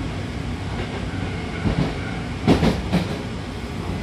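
Steady rumble of a Hankyu electric train running, heard from inside the car, with a few clacks of the wheels crossing rail joints, loudest between about two and three seconds in.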